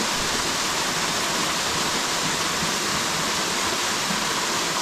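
Steady rush of falling water from a waterfall, an even hiss without breaks.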